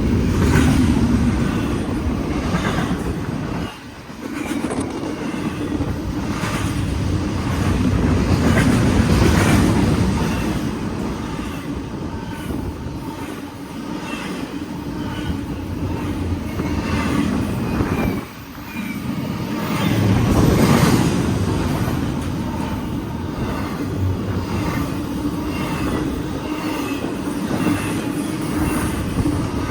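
BNSF intermodal freight train rolling past, loud: its steel wheels rumble steadily and clack over the rail joints. The sound drops briefly twice, about 4 and 18 seconds in.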